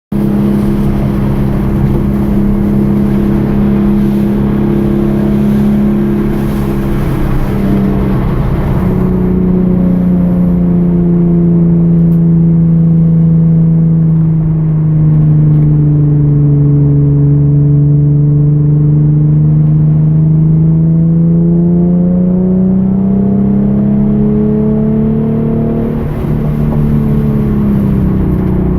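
Hyundai Genesis Coupe's 3.8-litre V6 engine running hard on track. Its pitch drops about a third of the way in, sinks slowly, then climbs steadily again toward the end, with a high hiss in the opening seconds and near the end.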